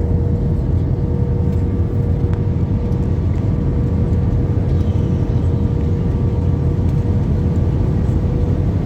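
Airliner cabin noise in flight: a steady, loud low rumble of engines and airflow with a thin steady tone over it.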